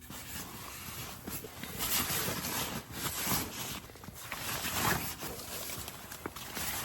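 Strong, gusty wind buffeting the microphone, swelling and easing every second or so.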